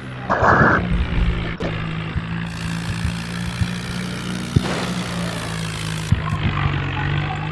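Tractor engine running steadily at a constant low hum, with a short burst of noise about half a second in.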